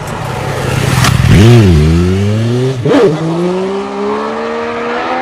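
A vehicle engine revving, with two quick swoops in pitch about a second and a half and three seconds in, then a slow, steady rise in pitch.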